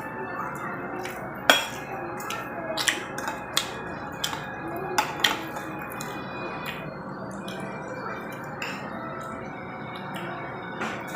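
Irregular light clinks and knocks of utensils against dishes, about a dozen scattered taps, over a steady background hum.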